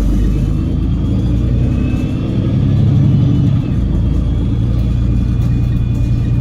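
Cummins L9 straight-six diesel and Voith DIWA automatic gearbox of a double-decker bus heard from on board, pulling under load with a steady deep drone and a faint high whine. The engine note swells about three seconds in, then eases.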